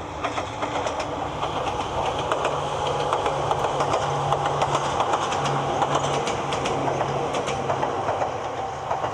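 An Ohmi Railway electric train running past with a steady low motor hum and the click of its wheels over rail joints. The sound grows louder a couple of seconds in and eases off near the end.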